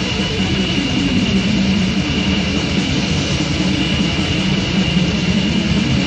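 Death metal demo recording: a dense, continuous wall of distorted guitars and drums, with a steady high whine running through it.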